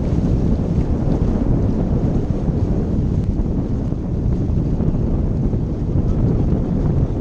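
Wind buffeting the microphone: a steady, loud, low rumbling roar that flutters constantly.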